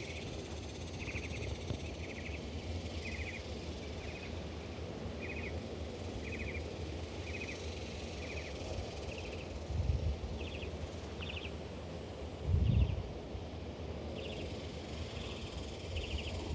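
Insects in the trees, which the speaker calls locusts, shrilling high-pitched in stretches of a few seconds, over a steady series of short chirps about twice a second. Two brief low thumps past the middle.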